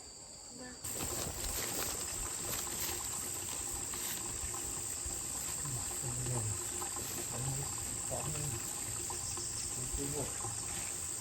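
Steady high-pitched chorus of insects, crickets or cicadas, starting abruptly about a second in.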